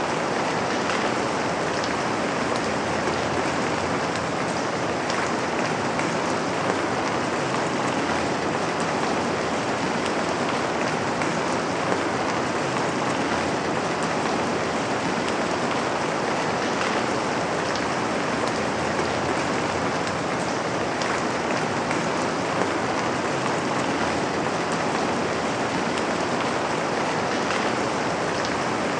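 Steady rain falling on a window pane, an even hiss with a few slightly louder single drop ticks.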